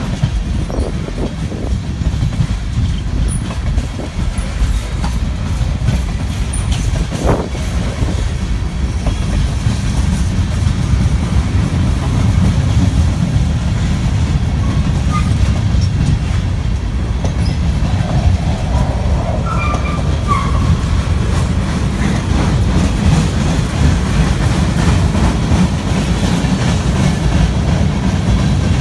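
CSX freight train rolling slowly past with a steady low rumble and wheels clicking over the rail joints. Faint wheel squeals come in briefly about two thirds of the way through.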